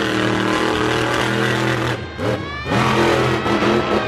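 Monster truck engine running hard under throttle, with a brief drop in power and quick revs about two seconds in before it picks up again.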